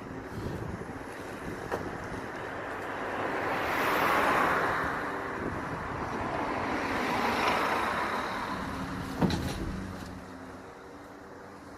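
Road traffic: two vehicles pass by, each a rush of tyre noise that swells and fades, with a single knock near the end.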